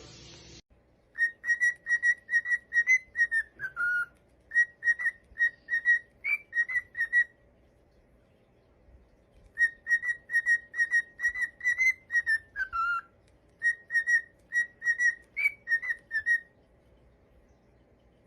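A parrot whistling a short tune of quick, clear notes. The phrase is given twice, with a pause of about two seconds between, and each time it ends on a falling note.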